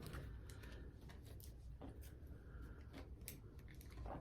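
Tarot cards being handled: a few faint, sharp flicks and light rustles of cards being slid and turned over, against a low steady hum.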